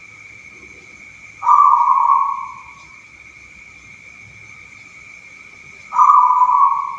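Zebra dove (perkutut) cooing its song, two phrases about four and a half seconds apart, each starting abruptly and fading away over about a second.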